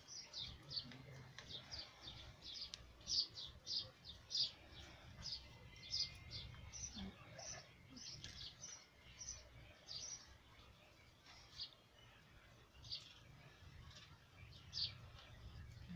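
Birds chirping: many short, high chirps, coming thick and fast for the first ten seconds, then thinning out before picking up again near the end.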